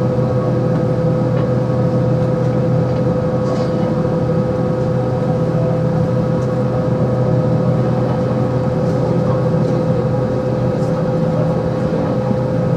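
Steady drone inside an Airbus A320 cabin: a constant mid-pitched tone over a lower hum, with a few faint ticks.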